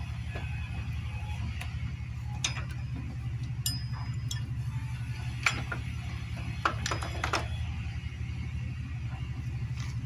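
Scattered metallic clicks and clinks of hand tools and motorcycle engine parts being handled, one ringing briefly, over a steady low hum.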